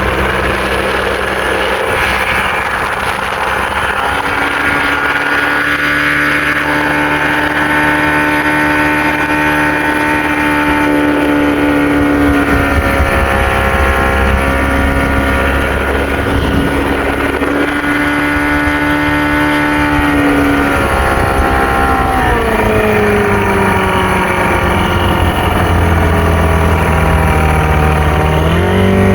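Small fishing boat's motor running steadily. Its pitch falls about two-thirds of the way through as it slows, then climbs again near the end as it speeds back up.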